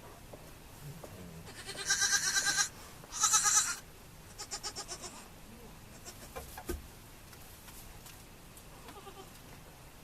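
A goat bleating: two loud, quavering bleats about two and three seconds in, then a fainter third.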